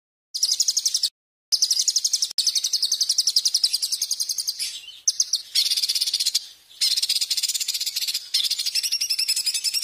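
Songbird singing rapid, high-pitched trills: long phrases of fast repeated notes, broken by short abrupt gaps.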